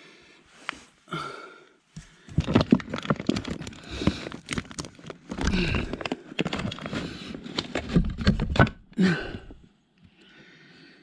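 Wooden boards knocking, clattering and scraping as a pine board is handled and test-fitted, with a short grunt about nine seconds in.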